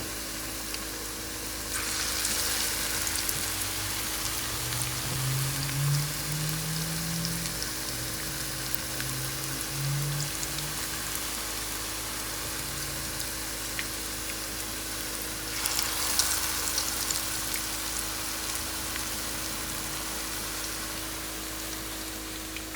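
Potato latkes frying in hot oil: a steady sizzle full of small crackles. It swells louder about two seconds in and again around sixteen seconds.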